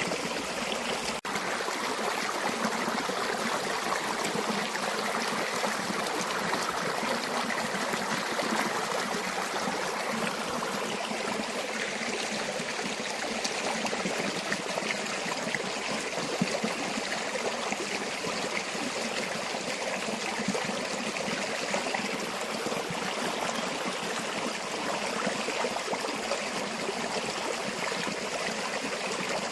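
River water running steadily, a continuous even rush with a very brief dropout about a second in.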